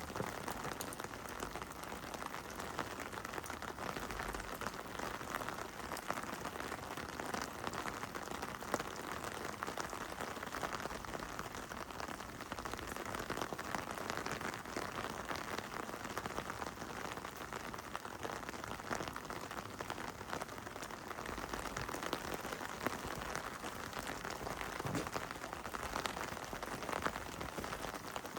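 Heavy rain falling steadily: a dense, even hiss of rain with many small drop impacts.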